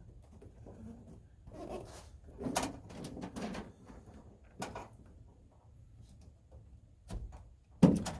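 Sheets of sound-deadening mat being handled and pressed down on a truck cab floor: scattered rustles and knocks, the loudest a sharp knock near the end.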